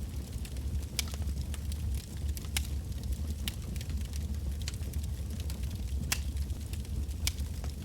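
Wood fire burning, with sharp irregular crackles and pops from the burning logs over a steady low rumble of the flames.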